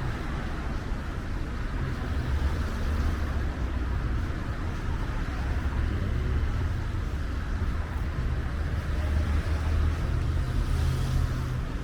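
Steady city street traffic on rain-wet roads, a continuous low rumble with tyre hiss over it.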